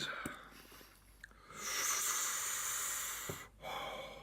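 A man breathing hard through his open mouth against the burn of very spicy noodles: a long rush of air lasting about two seconds, then a shorter one.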